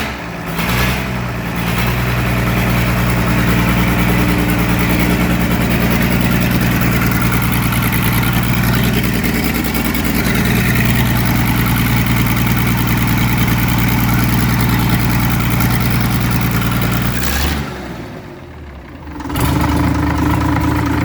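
Rebuilt Muir Hill tractor engine, on its first start after a new cylinder liner and rings, catching and running steadily. Near the end it drops away briefly, then picks up again on a changed note.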